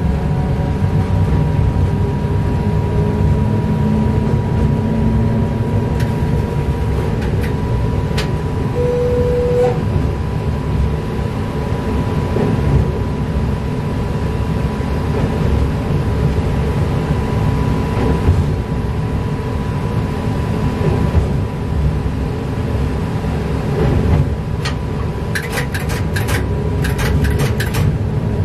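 Train running along single track, heard from the cab: a steady low rumble with a faint steady whine over it. A quick series of sharp clicks comes near the end.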